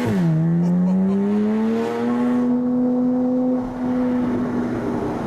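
Porsche 981 Cayman S flat-six through an Armytrix valvetronic exhaust with the valves open, heard from inside the car under acceleration. An upshift right at the start drops the revs, which then climb for about two seconds and hold steady.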